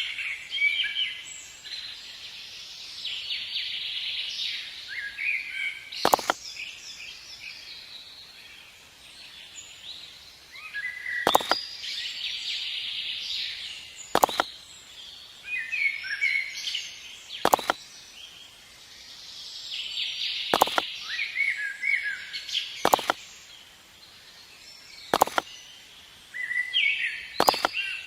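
Small birds chirping in repeated bursts, with a sharp knock every two to three seconds, eight in all, beginning about six seconds in.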